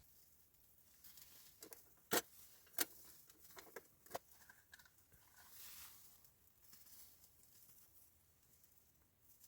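A few sharp clicks and taps, the loudest two close together a couple of seconds in, over a quiet background, followed by a faint hiss.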